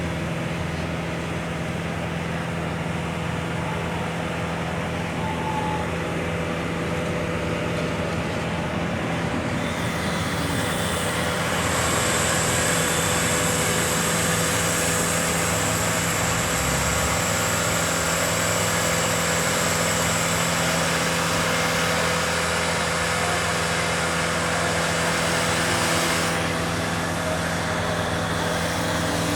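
Boom lift running in rabbit (fast) speed as the basket is brought back down: a steady engine and hydraulic hum, with a high whine joining about twelve seconds in and dropping out about nine seconds later.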